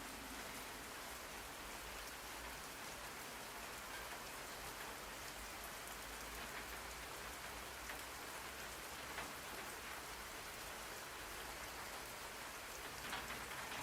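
Steady rain falling on a surface, an even hiss with faint scattered drop patter.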